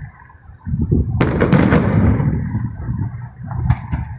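Aerial firework shells bursting. After a brief lull, two sharp bangs come about a second in, followed by a steady low rumble and a smaller crack near the end.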